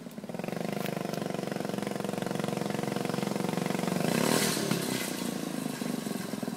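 Mini bike's small gas engine running. It picks up about half a second in, grows louder to a peak with a rush of hiss about four seconds in, then eases off.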